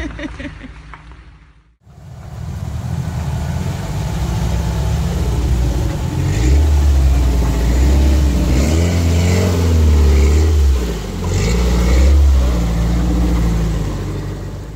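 Suzuki Samurai's 1.6-litre G16A four-cylinder engine with a Magnaflow muffler, revving up and down under load as the truck crawls through deep mud. The engine swells in pitch several times in the second half.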